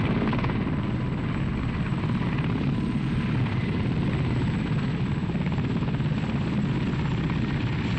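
Helicopter in flight: steady rotor and engine noise, heaviest in the low range.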